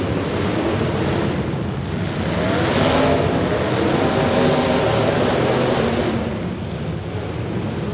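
Demolition derby car engines running and revving. One engine revs up about two and a half seconds in, stays loud for a few seconds, then eases off.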